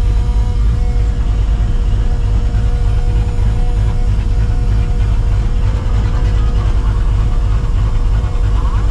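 Cammed, Procharger-supercharged 5.4-litre V8 of a 1999 Mustang GT rumbling steadily while cruising at a constant speed, with a faint steady whine above the rumble.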